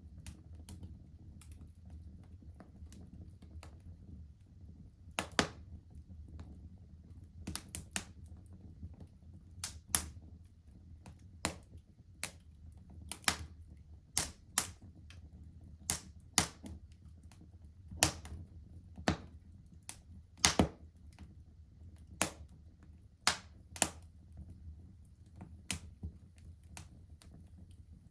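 Wood fire crackling in a fireplace: sharp, irregular pops and snaps every second or so over a low, steady rumble of burning.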